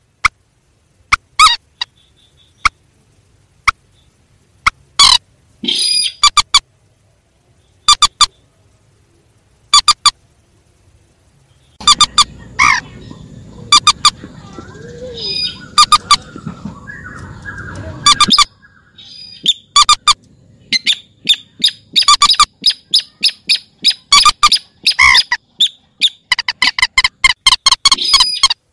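Recorded calls of mandar and sintar, rails and crakes of rice fields and marshes, used as a lure for netting: short, sharp, loud notes repeated in irregular series. About twelve seconds in comes a stretch of steady background noise with softer calls, and the calls come thick and fast near the end.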